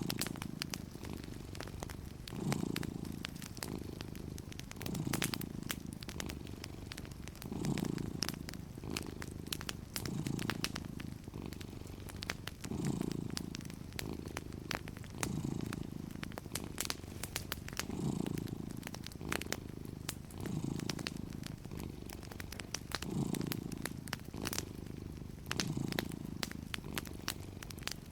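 A cat purring steadily, the purr swelling with each breath about every two and a half seconds, over scattered small crackles and pops from a wood fire.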